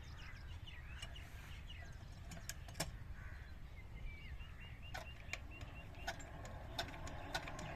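Small birds chirping, with scattered sharp clicks and a low rumble; near the end a faint steady hum sets in.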